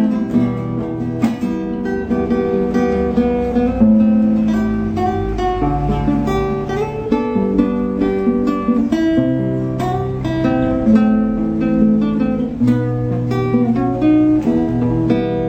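Acoustic guitar (violão) playing a piece of plucked notes and chords over a bass line that moves every second or so.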